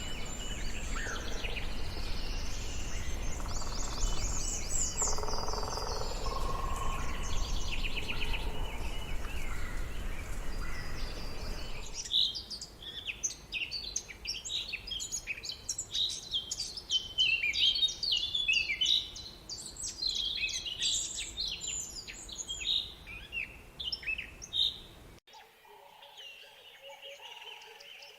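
Birds chirping. For the first twelve seconds or so, a steady outdoor noise with a low rumble carries a few scattered calls. Then it switches abruptly to a dense chorus of short, rapid, high chirps, which gives way near the end to a quieter stretch with a few thin calls.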